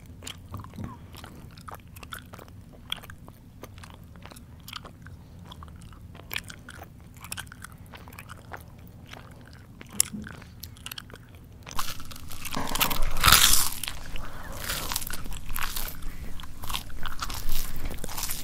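Close-miked chewing: quiet wet mouth clicks and smacks, then about two-thirds in a sudden switch to loud, dense crunching of crunchy food that carries on to the end.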